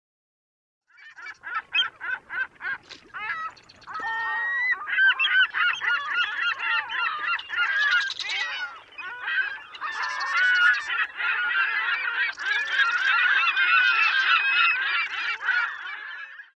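A flock of seagulls calling, many cries and squawks overlapping. It starts about a second in with scattered calls and becomes a busy, continuous chorus from about four seconds in.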